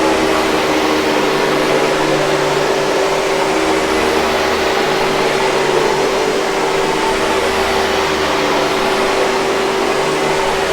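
Hoover 5000 Series canister vacuum running steadily: a constant rush of air over a steady motor whine, with a faint low hum that rises and falls slowly.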